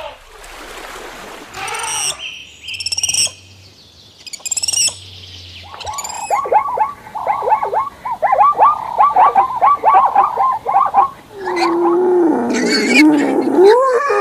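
A sequence of different animal calls. It opens with a few short high calls, then a fast run of short repeated calls, and near the end a longer, lower wavering call.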